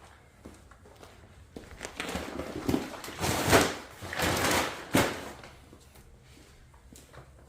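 Bags of feed being handled: a few seconds of rustling and shuffling that swells twice and ends in a sharp knock about five seconds in.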